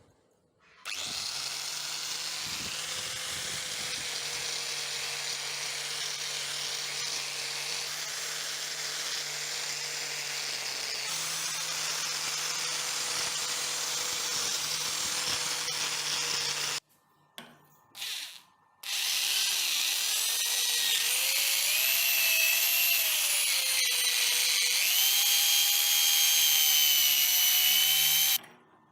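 A handheld electric power tool runs steadily for about sixteen seconds and stops. It starts in two short bursts, then runs again for about nine seconds, its whine rising and falling in pitch as it works against the rusty steel of an old adze.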